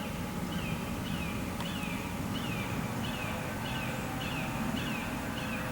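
A bird calling over and over, a steady series of short notes that each slide downward, heard as "fear, fear, fear".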